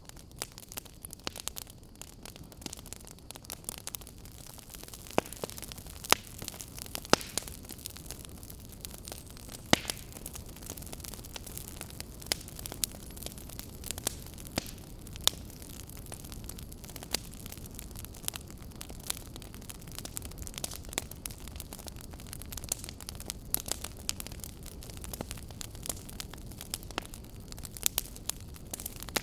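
Burning firewood crackling: a steady low rumble of flames with frequent sharp snaps and pops, a few of them louder in the first third.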